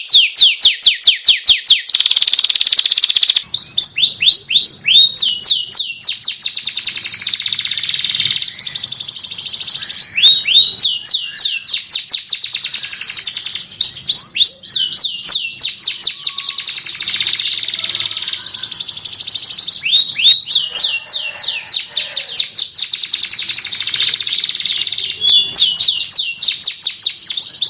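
Recorded songbird song of a cililin and a canary: fast rolls of rising whistled notes, several a second, in repeated bursts, with a dense buzzy trill about two seconds in.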